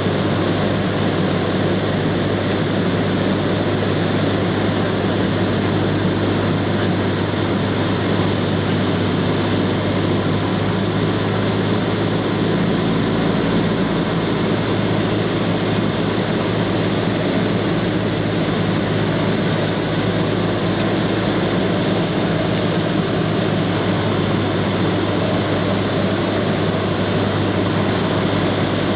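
Cessna 172's piston engine and propeller running steadily: a constant low drone over an even hiss, with no change in pitch or level.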